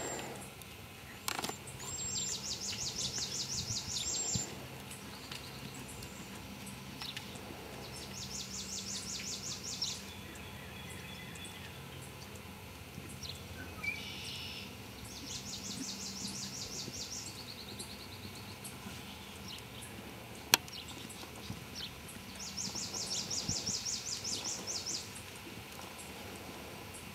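A songbird singing a fast, high trill about two seconds long, repeated four times several seconds apart, over steady outdoor background noise. A single sharp click about twenty seconds in.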